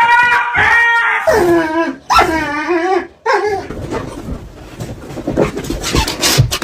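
Dog whining and howling in drawn-out pitched calls: first a held note, then a falling one, then a wavering one. About three and a half seconds in these give way to softer shuffling noises.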